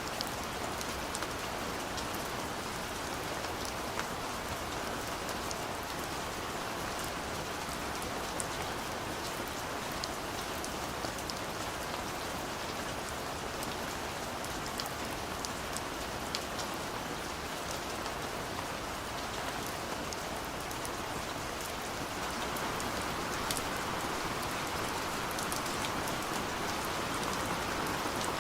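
Steady rain falling, with scattered sharp drop ticks over an even hiss; the rain swells a little over the last few seconds.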